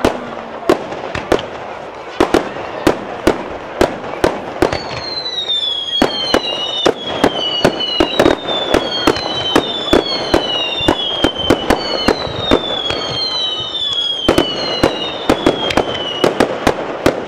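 Fireworks display: a rapid, uneven string of sharp bangs, joined from about five seconds in by several overlapping falling whistles that die away near the end.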